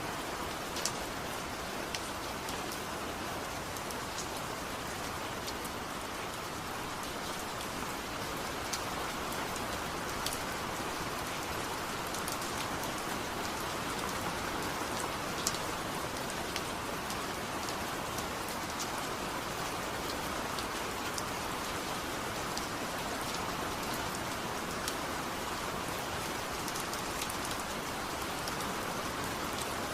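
Steady rain falling, an even hiss with occasional sharp ticks of drops.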